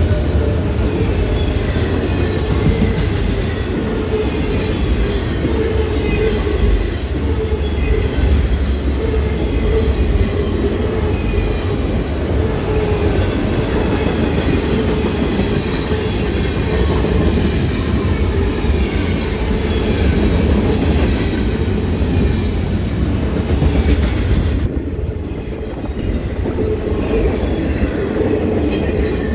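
Norfolk Southern manifest freight train rolling past on the rails, a steady rumble of wheels with faint wavering high tones over it. The sound dips briefly a few seconds before the end.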